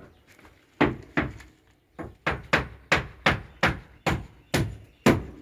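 Hammer driving nails into wooden centering boards: a run of about a dozen sharp strikes, at first spaced out, then quickening to about three a second.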